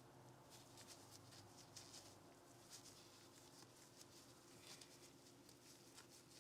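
Faint handling sounds of pistol cleaning: soft, repeated brushing or wiping strokes and a few light clicks, over a low steady hum.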